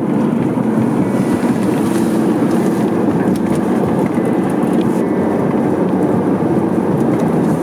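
A moving car's steady road and engine noise.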